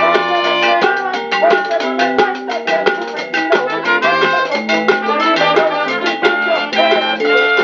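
A Latin band playing an instrumental passage with no vocals: sustained melodic notes over a quick, steady drum and percussion beat.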